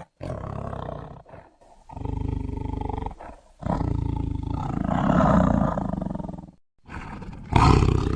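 Big-cat roars and growls used as the sound effect of Smilodon, the sabre-toothed cat: a string of separate low, rumbling calls with short gaps between them, the loudest about halfway through and a fresh loud one starting near the end.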